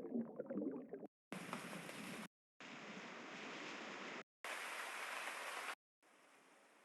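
A run of short relaxation-app ambient sound loops of the rain and running-water kind, played one after another. Each plays for about a second or so, with an abrupt cut and a brief silence before the next, and the last one is noticeably quieter.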